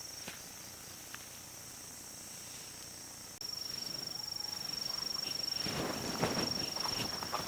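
Insects trilling in a steady, high-pitched, slightly pulsing buzz. Rustling footsteps in leaf litter come in over it from about two-thirds of the way through.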